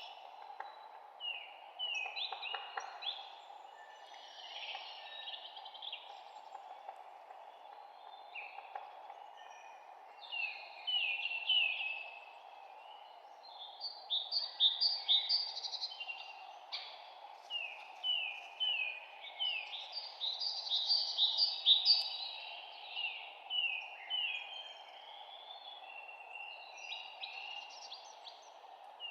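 Birds chirping and singing in a morning chorus: quick runs of short descending chirps, busiest and loudest in the middle stretch, over a steady low hiss.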